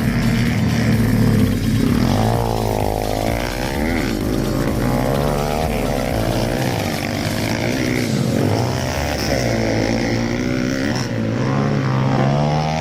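Dirt bike engines revving, their pitch rising and falling again and again as the throttle is opened and closed.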